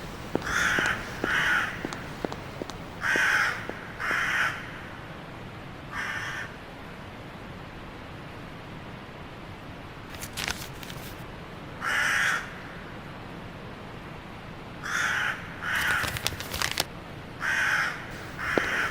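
Harsh bird calls, each about half a second long, coming in pairs and short groups about ten times. There are a few spells of clicking between them.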